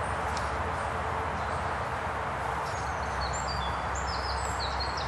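Birds singing in woodland: short high whistled notes from about halfway in, with a quick trill near the end, over a steady background hiss and low rumble.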